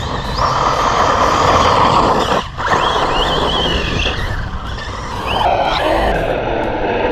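Team Associated Rival MT10 RC monster truck driving on a 3S battery: its brushless motor whines up and down with the throttle over a steady rush of tyre and drivetrain noise. The sound dips out briefly about two and a half seconds in.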